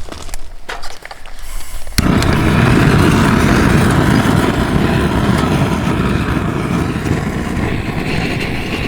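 A few light clicks and knocks, then about two seconds in a loud, steady rushing noise starts suddenly and cuts off abruptly near the end.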